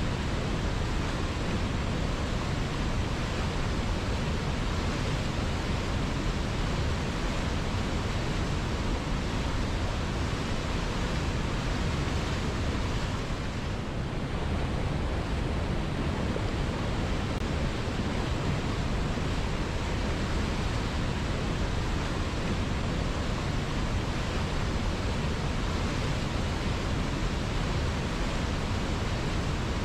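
River water flowing: a steady, even rushing noise, briefly a little softer about halfway through.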